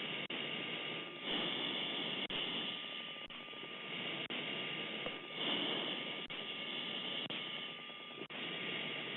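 Jet aircraft cockpit noise heard over the intercom: a steady rushing hiss with a faint steady tone, swelling louder three times, and a light tick about once a second.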